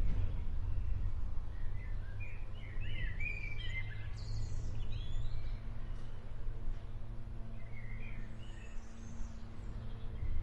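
Birds chirping over a steady low rumble of outdoor ambience. There is a busy run of chirps in the first half and a few more near the end.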